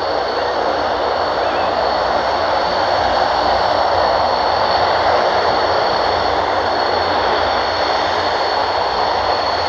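Jet2 airliner's jet engines running at high takeoff power on the runway: a loud, steady rush with a high whine, swelling slightly midway.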